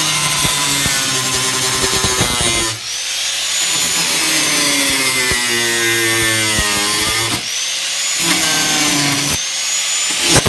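Electric power tool cutting into the sheet-metal body of a Nissan 240SX. The motor whine sags and recovers under load, and the tool stops briefly about three seconds in and again near the end.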